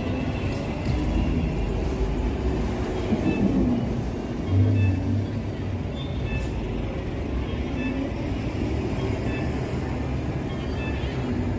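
Steady low rumble of a light rail train and street traffic, with a brief louder low hum about four and a half seconds in.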